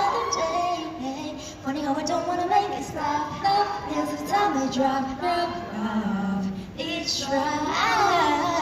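Female voices singing a pop melody, with a sliding vocal run near the end.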